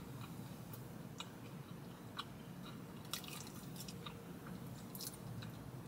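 Faint chewing of a thin, crispy breadstick: scattered small crunches and mouth clicks, with a cluster of them about three seconds in and another about five seconds in.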